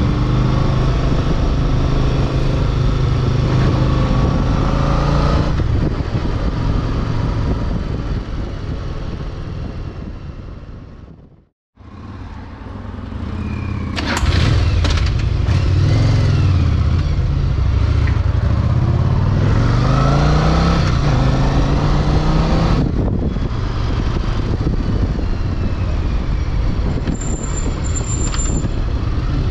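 Yamaha Virago V-twin motorcycle engine running on the move, with wind noise. Partway through the sound fades out briefly. It comes back as the bike pulls away, the engine pitch climbing and dropping through several gear changes, then settles into steady riding.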